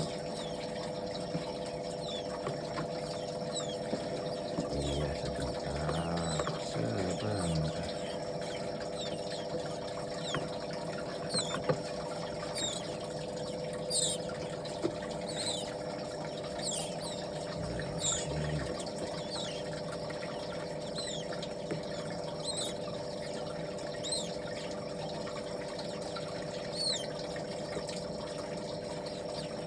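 Baby birds peeping: short, high chirps that slide downward, repeated irregularly over a steady hum.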